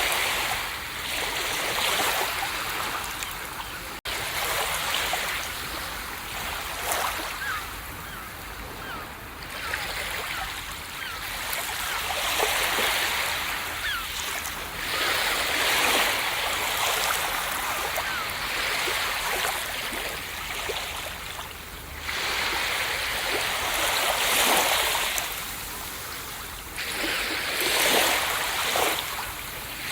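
Ocean surf breaking and washing up a beach, the hiss swelling and fading every few seconds as successive waves come in.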